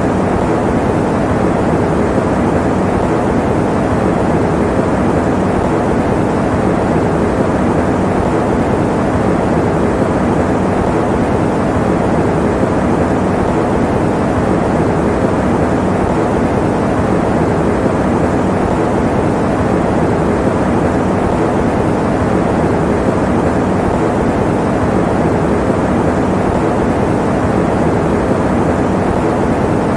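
Electric fan running steadily, an even, dull whoosh of moving air with no change in level or pitch.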